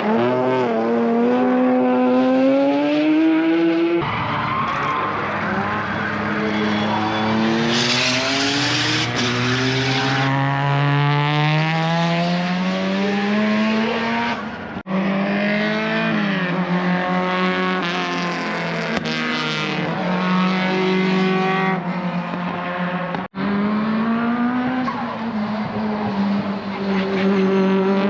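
Race car engines running hard on a circuit, their pitch climbing steadily and dropping back again and again as they accelerate through the gears. The sound breaks off abruptly a couple of times where one shot cuts to the next.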